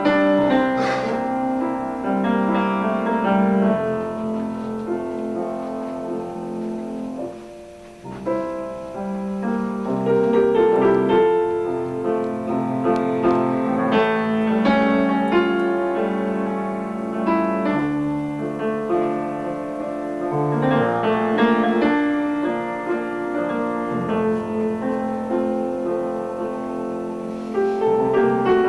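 Piano playing, a run of notes and chords that eases off briefly about eight seconds in and then picks up again.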